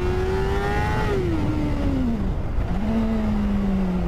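Motorcycle engine pulling with its pitch rising, easing off about a second in so the pitch falls away, then picking up again at a lower, slowly dropping pitch about two and a half seconds in, over a steady low rumble.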